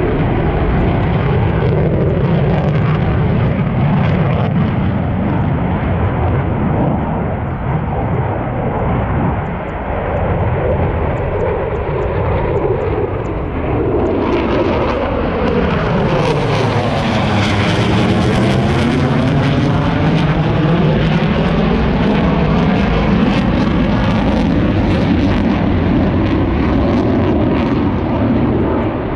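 Aircraft engine noise from a military aircraft flying past, loud and steady. About halfway through it swells and turns harsher as the aircraft passes overhead.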